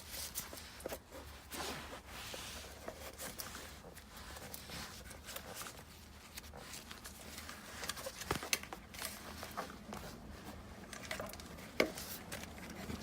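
Scattered light clicks and rustling of hands working multimeter probes onto a fuel injector's terminals, over a faint steady low hum.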